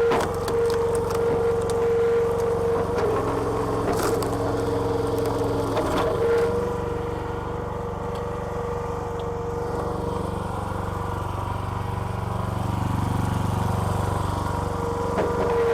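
Petrol engine of a hydraulic log splitter running steadily, with a strong high whine over it that fades out about six seconds in and comes back near the end. A few sharp knocks or cracks in the first six seconds.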